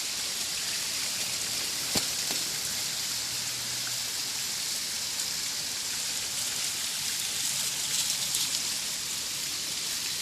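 Steady rush of a small waterfall and its stream splashing over bedrock. A single sharp click comes about two seconds in.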